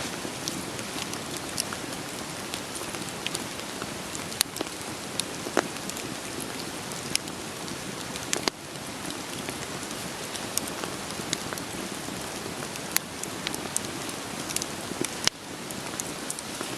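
Steady rain pattering, mixed with a wood fire crackling: sharp, irregular pops and snaps over an even hiss. The hiss drops abruptly twice, about halfway through and near the end.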